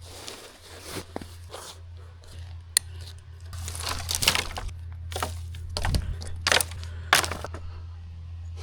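Camping gear being handled and packed: brief rustling and scraping with scattered light knocks and clinks, over a steady low hum.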